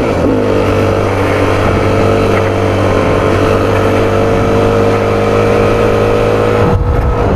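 Yamaha WR250F's single-cylinder four-stroke engine running under way. Its pitch drops at a gear change right at the start, then holds nearly steady and slowly rises before another shift near the end.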